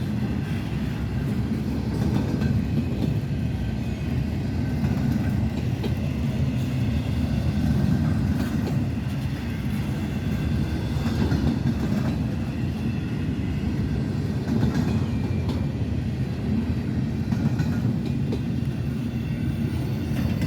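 Norfolk Southern freight train rolling past, a steady rumble of its wheels on the rails with faint clicking of rail joints.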